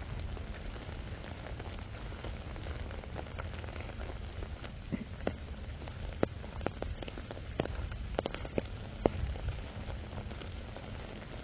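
Steady rainfall, with a scatter of sharper, louder drops tapping on an umbrella overhead, most of them between about five and nine seconds in.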